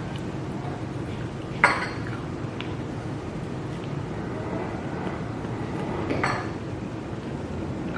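Two sharp clinks of tableware, a utensil or shell knocking against a dish, the first about one and a half seconds in and the second near six seconds, over a steady low background hum.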